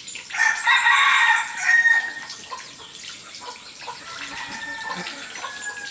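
A rooster crows once, a loud crow of about a second and a half shortly after the start.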